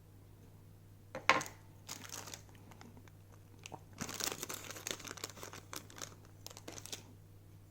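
Crinkling, rustling handling sounds: a sharp click about a second in, then bursts of crackly rustling that grow denser and stop shortly before the end.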